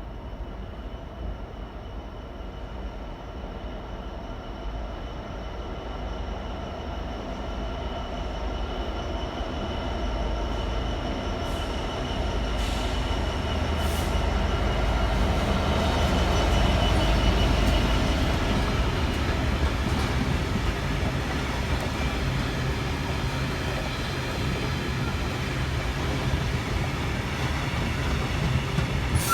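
Diesel-hauled engineers train approaching on the line, growing steadily louder to a peak a little past halfway, then easing slightly. Steady engine and wheel tones run through it, with a few sharp clicks around the middle.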